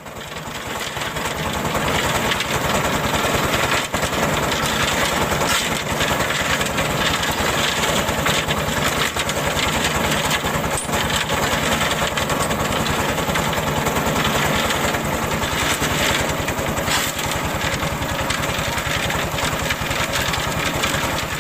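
Small motor running steadily with a rapid buzz, swelling in over the first couple of seconds and dropping away at the very end.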